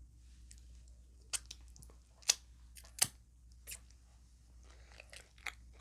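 Close-up chewing of a crunchy taco shell: a few sharp crunches, the loudest about two and three seconds in, amid softer mouth sounds.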